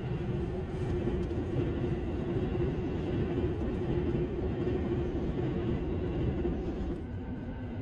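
Passing train, a steady rumble with a held hum over it; the sound thins and the hum drops in pitch about seven seconds in.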